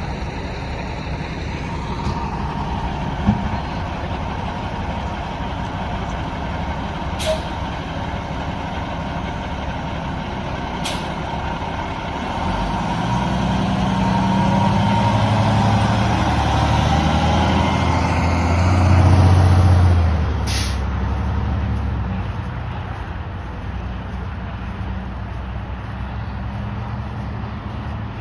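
A fire engine's motor running as the heavy truck draws near, passes close about two-thirds of the way through, and moves off, with a few short sharp clicks along the way.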